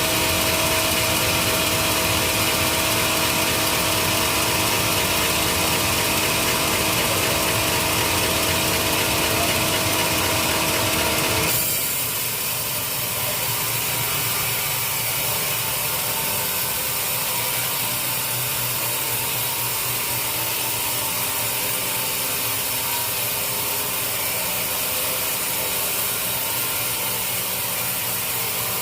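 Sawmill saw running and cutting through teak wood, a loud steady mechanical grind. About a third of the way through the sound changes abruptly, the steady hum dropping away and a rougher grinding carrying on.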